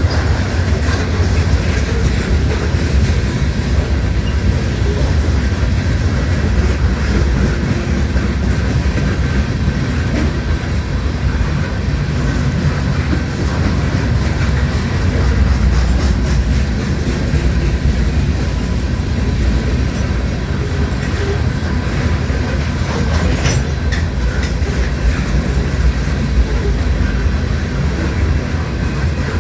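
Freight train of loaded sand cars rolling past, a steady heavy low rumble with wheels clacking over the rail joints and a faint steady ring of steel wheels on rail.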